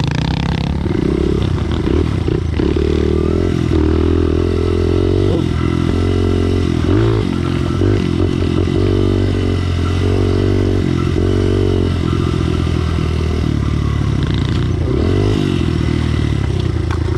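Pit bike engine running hard on a trail ride, its revs rising and falling repeatedly as the throttle opens and closes.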